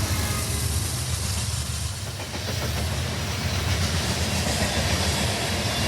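A train led by a BNSF diesel locomotive passes close by, making a steady low rumble with the rolling noise of its wheels on the rails.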